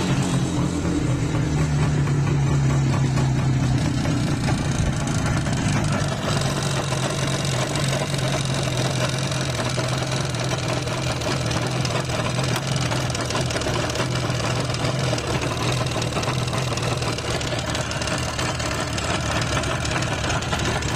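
IZh Jupiter-5 motorcycle's 350 cc two-stroke twin idling steadily after settling from a rev, with the metallic ringing knock that the owner puts down to the pistons.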